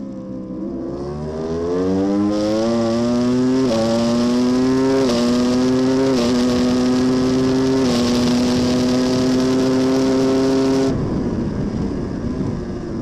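Racing superbike engine heard onboard, accelerating hard and pitching up through the gears with quick upshifts, then held at high revs. About eleven seconds in the throttle shuts off and the note drops under a rush of noise as the bike slows.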